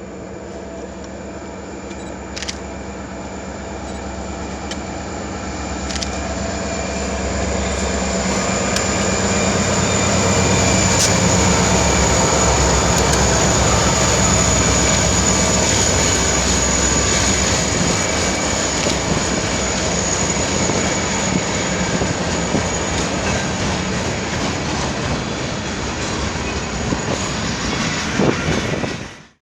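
A train rolling past close by: the rumble builds over about ten seconds and then holds steady, with a thin high whine over it and a few sharp clicks. It cuts off abruptly near the end.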